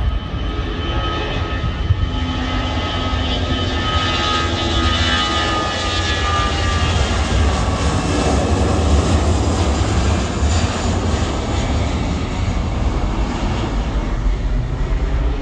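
Airliner engines running, a deep rumble under a whine of several steady high tones, swelling a little about halfway through.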